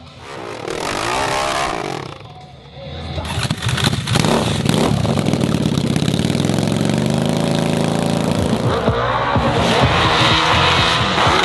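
Modified hill-climb motorcycle engine revving hard on the climb. It gets loud about three seconds in, and the pitch rises and falls as the throttle is worked.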